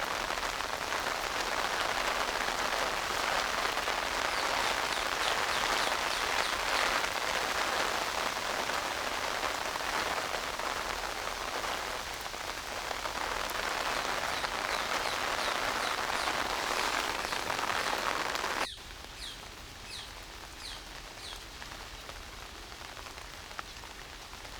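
Steady rain falling and pattering on surfaces. About three-quarters of the way through it cuts off abruptly to a much quieter, lighter rain, and a few short high chirps follow.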